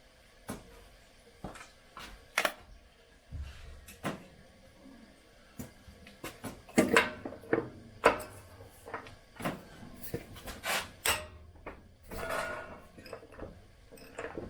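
A 1-1/16" socket and wrench clicking and knocking on a water heater's anode rod hex as it is seated and forced to break the seized anode loose: scattered metallic clicks and knocks, with heavier clusters about halfway through and again near the end.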